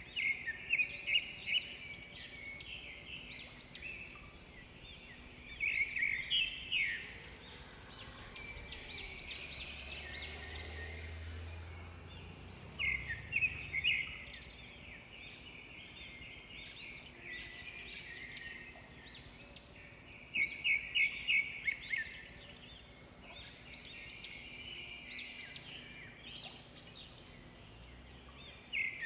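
Birds calling in bursts of quick, high repeated notes, a burst about every six to seven seconds, over steady outdoor background noise. A low rumble rises briefly around the middle.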